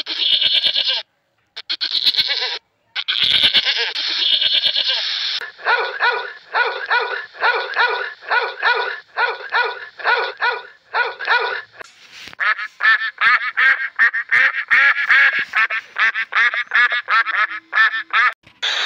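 An animal calling over and over: a few short harsh calls, then a run of calls about two a second, then a faster run about three a second.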